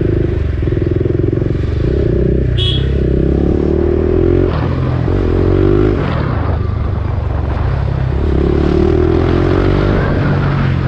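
BMW G310R's single-cylinder engine running through an Akrapovic full-system exhaust while being ridden. Its pitch rises under acceleration and drops back at gear changes, several times over. There is a brief high chirp about two and a half seconds in.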